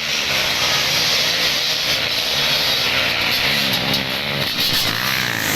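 Motocross dirt bike engines running and revving, their pitch rising and falling over a steady loud engine noise.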